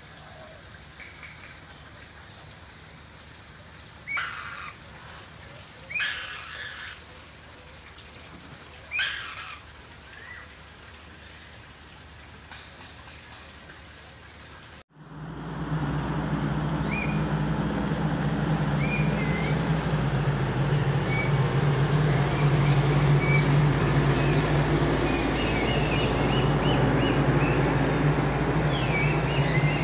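Three short, harsh bird calls a couple of seconds apart over a quiet background. Then, after a sudden break, a louder steady low hum runs under many short chirps from small birds.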